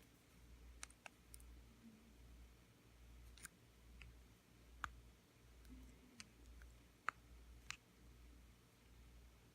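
Faint, scattered clicks of small metal tools and parts being handled while the tabs holding a small DC motor's end bell are bent out, about ten sharp clicks spread unevenly through otherwise near-quiet.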